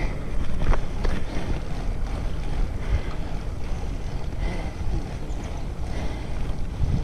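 Wind buffeting the microphone while riding a bicycle: a steady, fluctuating low rumble, with a few faint clicks near the start.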